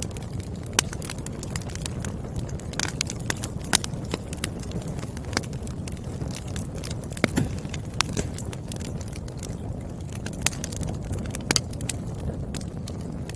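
Burning firewood crackling: a steady low rumble of flames with frequent irregular snaps and pops, a few of them sharply louder.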